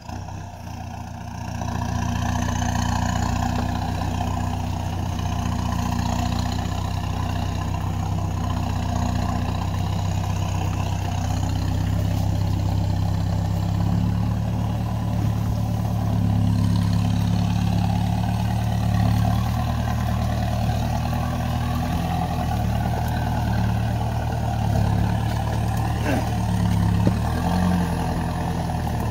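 2018 Mahindra Roxor's 2.5-litre turbodiesel engine running steadily under load while towing a heavy old International M tractor. It picks up about a second and a half in and then holds with small rises and falls.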